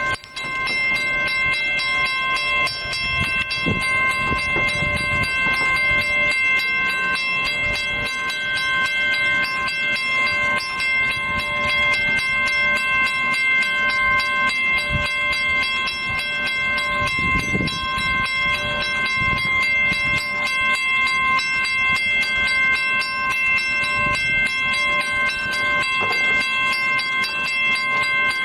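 Long Island Rail Road electric commuter train at the station, its equipment giving off a steady whine of several high tones that stay at one pitch, with occasional low thumps.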